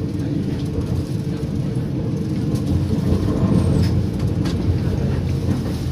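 Steady low rumble inside a moving passenger train coach as it runs on the rails, with a few faint clicks.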